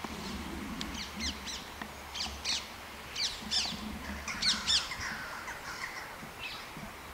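Birds calling: short, high, sharply falling calls repeated in quick clusters, fading after about five seconds.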